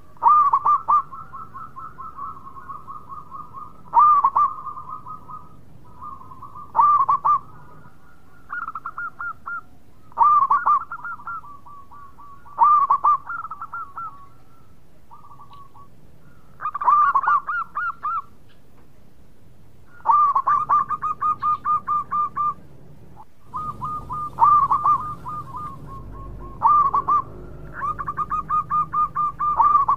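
Zebra dove singing its cooing song. About every three to four seconds comes a phrase that opens with a loud note and runs into a quick string of short, even coos.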